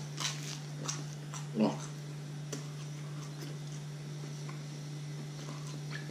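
Lightly toasted bread crust being bitten and chewed: a few short crisp crunches and one low grunt-like mouth sound in the first two and a half seconds. A steady low hum runs underneath.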